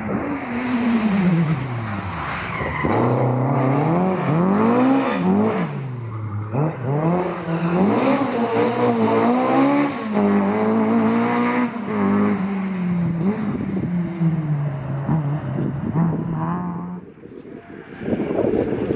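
Historic rally car engine revving hard, its pitch climbing and dropping again and again as it works through the gears. It fades out near the end, and a rougher noise rises just before the end.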